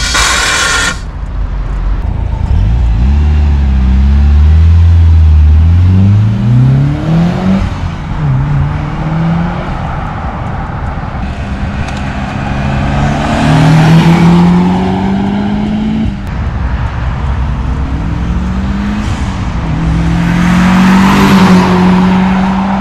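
Turbocharged four-cylinder engine of a Mitsubishi Lancer Evolution IX revving and accelerating, its pitch climbing and then dropping several times as it works through the gears, with louder surges of rushing noise at the peaks about two-thirds of the way in and near the end.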